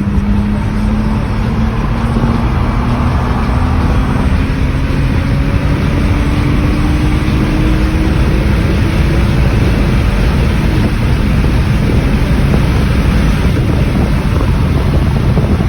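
BMW six-cylinder engine, fresh spark plugs fitted, pulling hard under full-throttle acceleration from 50 mph. Its note climbs steadily for about nine seconds, then fades into heavy wind and road noise.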